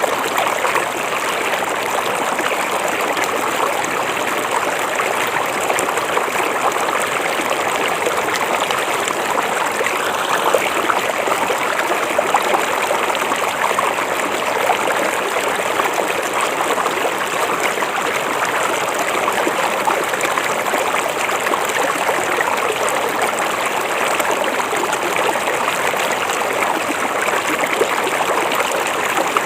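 River water flowing steadily, an even, continuous rush of running water with no breaks.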